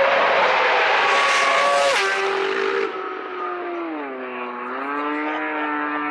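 Superbike racing motorcycle engines running, several engine notes at once and loud for the first three seconds. The level then drops, and one engine note falls in pitch about four seconds in and levels off.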